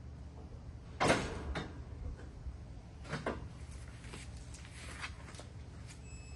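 A few sharp knocks and clunks, the loudest about a second in and another about three seconds in, with lighter ticks between, over a faint steady low hum.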